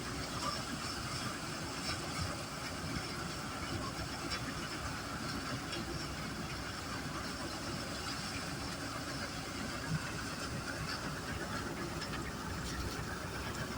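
HMT 5911 tractor's diesel engine running steadily under load, driving a paddy threshing machine, with a continuous hiss and many small ticks from the threshing.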